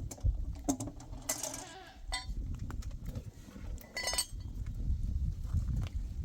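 Goats bleating in short calls, with scattered clinks and knocks over a low rumble.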